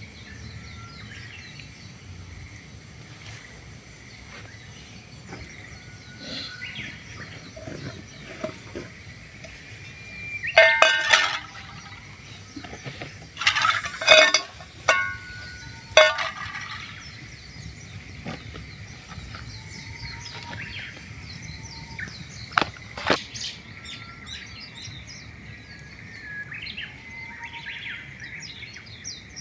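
Small songbirds chirping in the background, with sharp metallic clinks and knocks: a run of them between about a third and halfway through, and two more about three quarters in.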